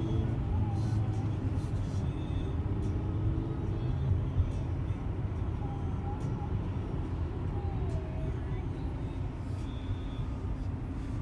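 Steady low rumble of road and traffic noise from a car driving in traffic.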